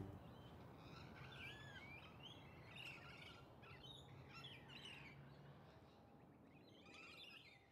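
Faint birds chirping over a low background hiss, with many short chirps throughout that die away near the end.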